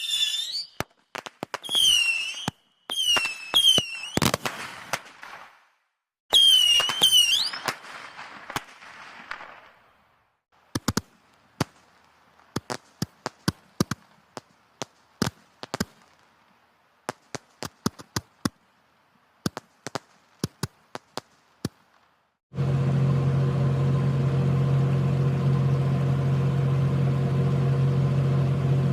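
Whistling fireworks: short whistles that bend upward in pitch, mixed with sharp bangs and crackle. These are followed by scattered sharp pops like firecrackers. About 22 seconds in, a steady machine hum starts abruptly.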